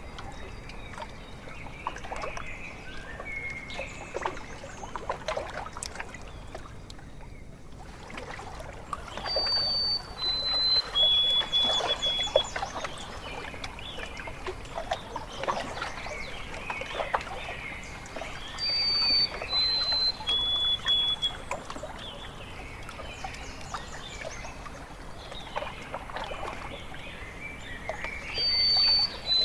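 Water lapping and splashing at a lakeshore, with a bird repeatedly singing a clear three-note whistle that steps down in pitch, heard three times about ten seconds apart. Other softer, wavering bird calls come in between.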